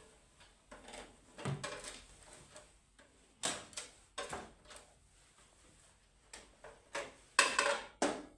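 Objects being handled: a string of irregular clicks, knocks and rustles, loudest in a cluster near the end.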